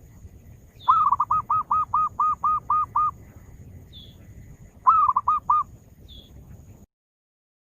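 Zebra dove (perkutut) cooing: a quick run of about nine short repeated notes, then a shorter run of four a couple of seconds later, with a faint high chirp now and then. The sound cuts off suddenly near the end.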